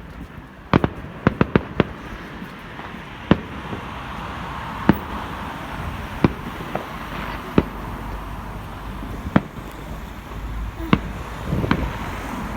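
Fireworks exploding: a dozen or so sharp bangs at irregular intervals, a quick cluster of four or five about a second in, then single bangs every second or two, and another cluster near the end.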